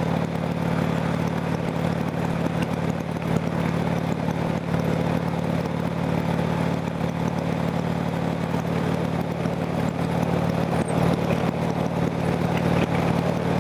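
Harley-Davidson V-twin motorcycle engine running steadily while riding at road speed, with wind rushing over a handlebar-mounted camera's microphone.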